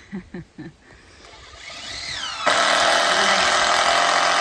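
Handheld power tool spinning up with a rising whine, then running loud and steady from about two and a half seconds in.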